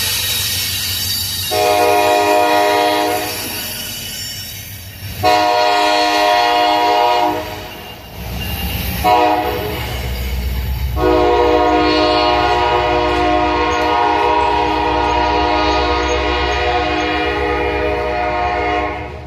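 Diesel locomotive air horn sounding the grade-crossing signal: two long blasts, a short one, then a long blast held about eight seconds, a chord of several tones. The low rumble of the approaching coal train's locomotive grows beneath it from the middle on.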